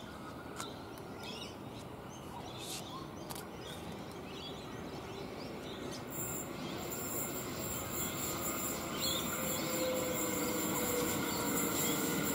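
Birds chirping over a quiet outdoor background while a Queensland Rail NGR electric multiple unit approaches, its rumble growing steadily louder. About six seconds in, a steady high-pitched whine from the approaching train and rails sets in and builds.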